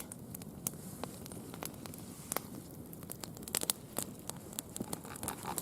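Wood campfire crackling, with irregular sharp pops over a soft steady hiss.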